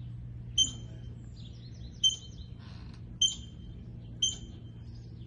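A ground squirrel giving a repeated sharp, high chirp, one short call about every second or so, four times with a fifth at the very end, over a steady low hum.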